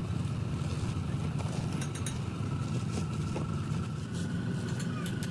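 Steady low mechanical rumble, like an engine or motor running, with a faint steady high whine and a few light clicks and taps.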